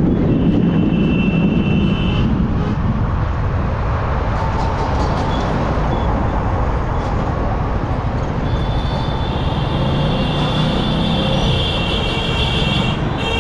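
Yamaha R15M motorcycle ridden along a highway: steady engine, wind and road noise, with thin high steady tones near the start and again in the last third.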